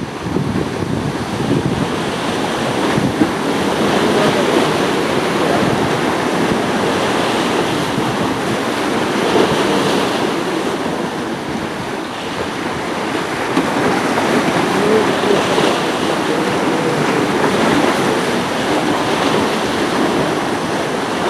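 Steady rush of harbour water and waves, with wind blowing across the microphone.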